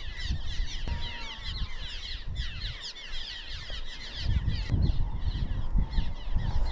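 A flock of small birds twittering constantly with quick high chirps, with wind buffeting the microphone as a low rumble that strengthens about two thirds of the way through.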